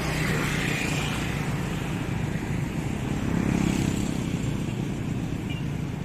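Road traffic, likely a passing motorcycle or car, over a steady low rumble of wind and road noise, swelling about three to four seconds in.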